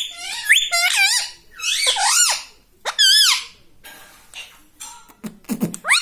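Pet ring-necked parakeet giving a run of high, squeaky calls that swoop up and down in pitch, several in quick succession over the first half, then quieter chatter.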